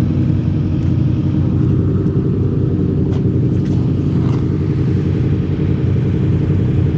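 Car engine idling steadily close by, a low, even running sound that holds without revving.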